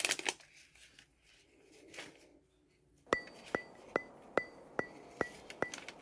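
A few faint clicks and rustles, then from about three seconds in an even, sharp ticking, about two and a half ticks a second, each tick with a brief high ring.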